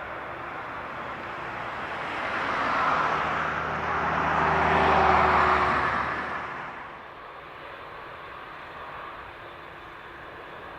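Boeing 787-8 jet engines heard on the runway: a rushing noise with a low hum under it that swells to a peak about five seconds in, then drops off quickly.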